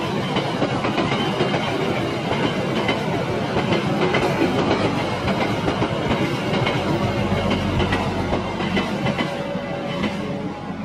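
KAI passenger train of stainless-steel coaches rolling past, its wheels clattering in quick clicks over the rails under a steady rush of rolling noise. The noise eases slightly near the end as the last coach goes by.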